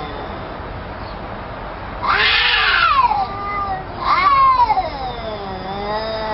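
Domestic cats fighting: drawn-out, wavering low yowls, broken by two loud shrill screeches about two seconds in and about four seconds in, each sliding down in pitch.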